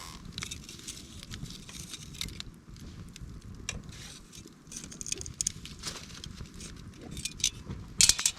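Wood fire crackling: irregular sharp pops and clicks, with a cluster of louder ones near the end.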